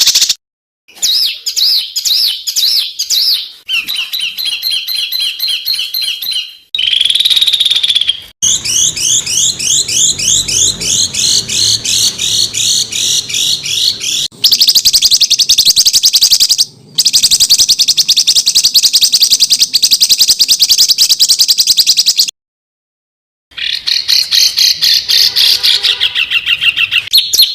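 Spliced recordings of songbirds singing fast, rattling bursts of repeated high, sharp notes, some of them quick rising sweeps. Each passage cuts off abruptly into the next, with a gap of about a second near the end. These are the rapid 'tembakan' phrases used as masteran to train competition songbirds.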